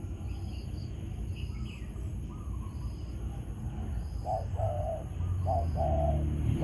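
Spotted dove cooing: a short series of low hooting coos begins about four seconds in and grows louder. A faint high pulsing call repeats about once a second behind it.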